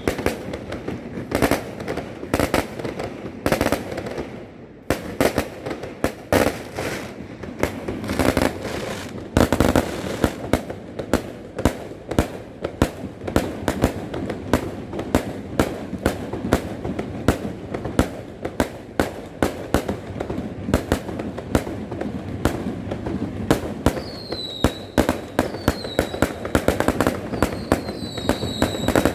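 Fireworks display: rapid, continuous bangs and crackling of aerial fireworks. From about 24 s to the end, several short whistles join in.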